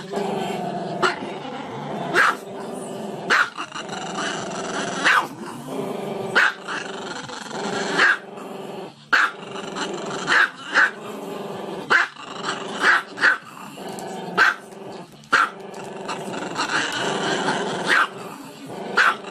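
Small black-and-tan dog growling continuously with its muzzle raised, breaking into short sharp barks about once a second.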